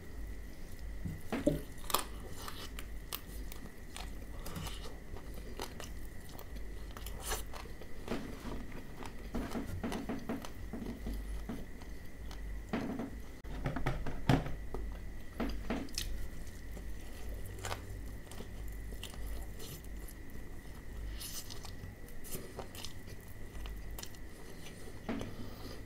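Close-miked chewing and crunching of crispy KFC Hot & Crispy fried chicken, with many short crisp bites and crackles. The loudest crunches come about two seconds in and around fourteen seconds. A faint steady high hum runs underneath.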